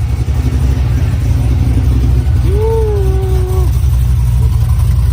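A car engine rumbling loudly and steadily through its exhaust. About halfway through, a brief held call or tone lasting roughly a second sits on top of it.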